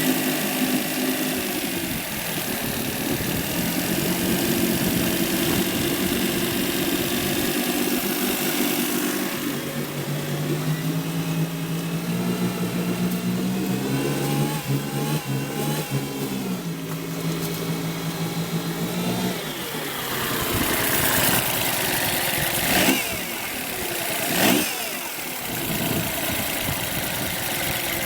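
Suzuki-built Johnson 40 hp four-stroke EFI outboard running steadily, then revved so its pitch climbs for several seconds before falling back. Near the end come two short, sharp throttle blips.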